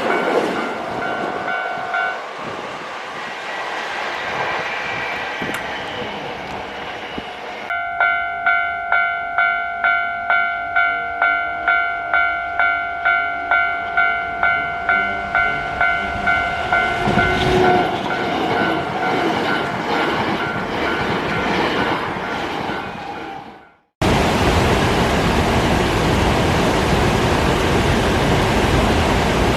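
Hankyu Kobe Line train running past. Over the middle of the stretch a bright ringing tone pulses about twice a second, and then a heavier rumble of the train passes. The sound fades and cuts off abruptly, and after that there is a steady even rushing noise.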